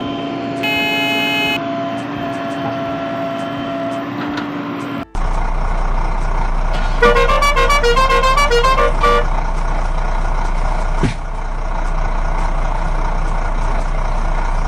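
A horn sounds once for about a second over a steady drone. After an abrupt break about five seconds in, a steady low hum runs on. About seven seconds in, a short tune of alternating beeps plays over it for about two seconds, like a musical vehicle horn.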